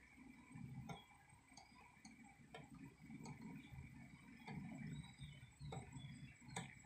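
Near silence: a faint low rumble with a few soft, irregular clicks about a second or so apart.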